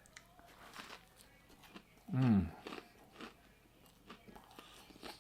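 A person biting into and chewing a crunchy air-fried chicken sandwich, with small scattered crunches. About two seconds in there is a short humming 'mm' that falls in pitch.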